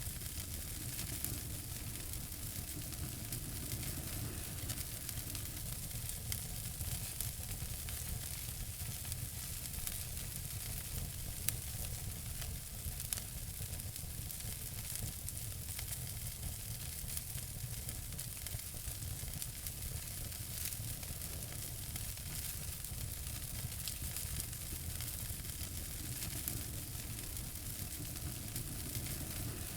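Fireplace fire crackling: a steady hiss with many small snaps, and two louder pops about eleven and thirteen seconds in.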